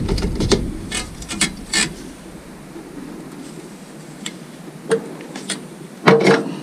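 Metal clicks and clanks from a small exhaust muffler being handled and fitted onto a diesel heater's exhaust pipe: a quick run of knocks, a few scattered taps, then a louder clank with a short ring near the end.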